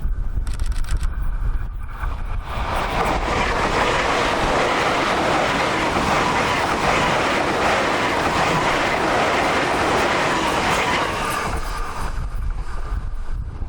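Tokyu 2020 series electric train passing, the noise of its wheels on the rails swelling about two seconds in and fading away near the end. Strong wind buffets the microphone before and after the train.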